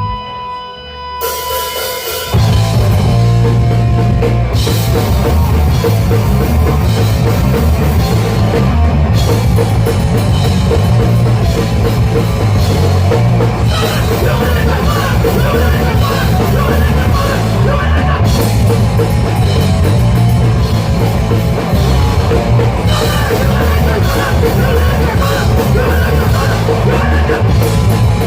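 Live rock band playing: a sustained held tone, then the full band with drum kit, bass and guitars comes in about two seconds in and plays on at a steady, loud level.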